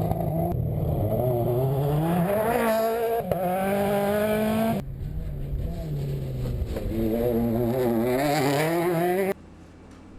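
MINI John Cooper Works WRC rally car's 1.6-litre turbocharged four-cylinder engine revving hard, its pitch climbing and dropping repeatedly as it is driven through the gears. The sound breaks off abruptly about five seconds in and again about nine seconds in, after which it is much quieter.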